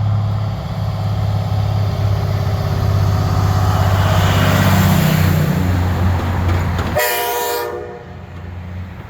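Heavy diesel truck engines running steadily as a truck passes close, then a short blast of a truck's air horn about seven seconds in.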